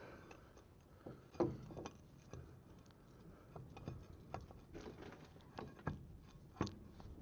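Scattered knocks and clicks of a brake caliper and hand tools being handled during refitting, the loudest about a second and a half in, then several lighter ones.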